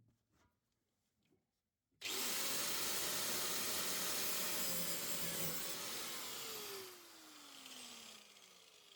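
A hand-held electric power tool starts abruptly about two seconds in and runs steadily for about five seconds, then is let off and spins down, its pitch falling through the end.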